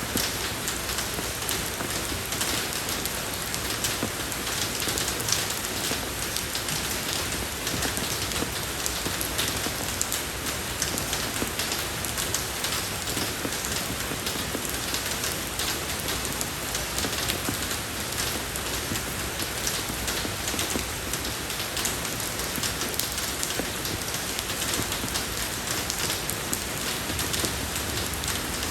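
Steady rain falling on a road surface, an even hiss of spatter with many small drop ticks.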